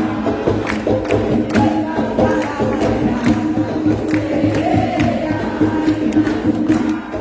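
Umbanda curimba: atabaque drums beaten in a steady rhythm under a group singing a ponto together.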